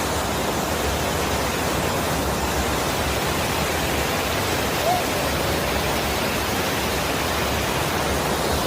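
Steady rushing of a mountain stream and waterfall. One brief pitched note sounds about halfway through.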